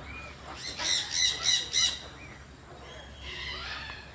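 A large parrot squawking: four loud, harsh squawks in quick succession about a second in, then a fainter call near the end.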